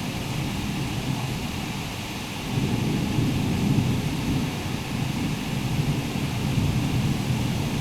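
Thunderstorm: steady rain hiss under a deep rumble that swells about two and a half seconds in.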